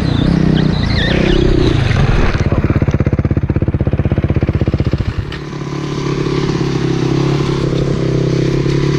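Motorcycle engine running, with a fast even pulsing for a couple of seconds before it drops off abruptly about halfway through and settles into a steady run.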